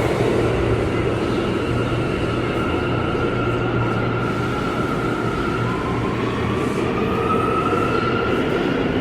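Subway train running, a steady loud rumble with high whines over it; one whine rises in pitch about seven seconds in.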